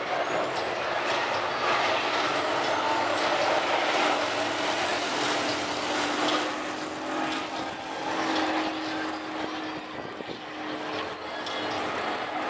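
Formula Truck racing trucks' diesel engines running on the circuit: a steady, loud engine drone with a held engine note, easing off slightly near the end.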